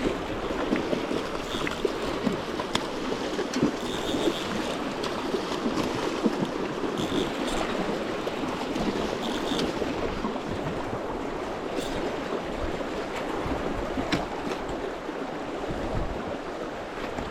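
Steady rushing of the Russian River's current flowing past, with a few faint short high chirps over it.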